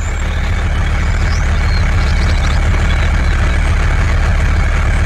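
An engine running steadily, a deep even rumble like a tractor idling.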